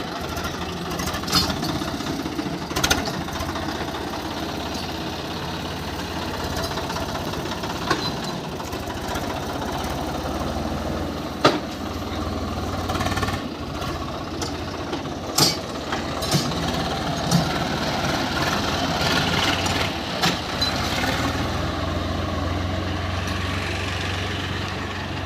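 Swaraj 855 FE tractor's three-cylinder diesel engine running steadily, with a few short sharp clicks or knocks scattered through.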